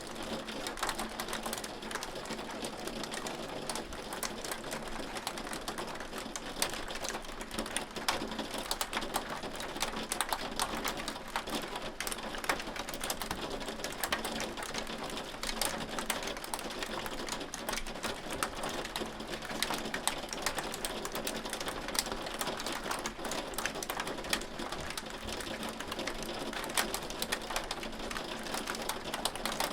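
Hail falling: a dense, steady clatter of countless small, irregular impacts.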